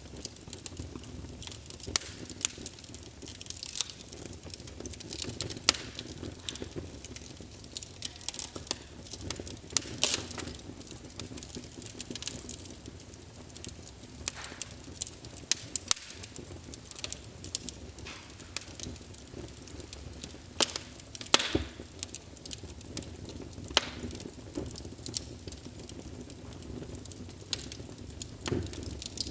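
Wood fire burning in a fireplace: a low steady rush of flame with irregular sharp crackles and pops, a few louder snaps scattered among them.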